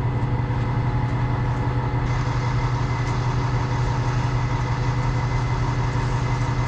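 Truck engine idling steadily, a constant low hum, most likely the wrecker's engine left running while the load is strapped down.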